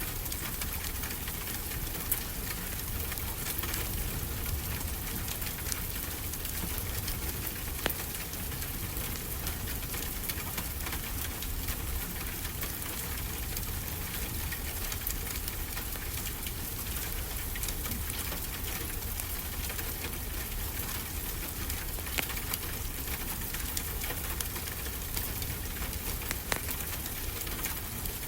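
Wood fire crackling with frequent small sharp pops and a few louder snaps, over a steady low wash of ocean surf.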